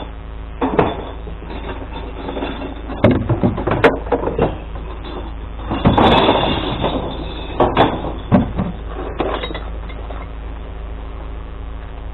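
A glass collection truck's engine running with a steady low hum. Over it come several short bursts of clattering and knocks, the loudest a bit past the middle.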